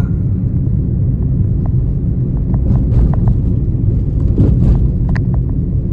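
Car driving on the road: a steady low rumble of engine and road noise, with a few light clicks scattered through it.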